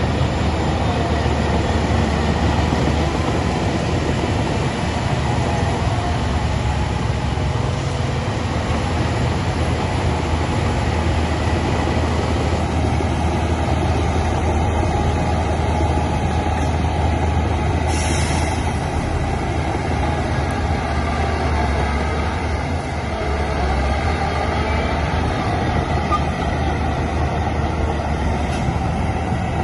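Heavy diesel earthmoving machinery running steadily with a low, constant engine sound. A brief high hiss comes about eighteen seconds in.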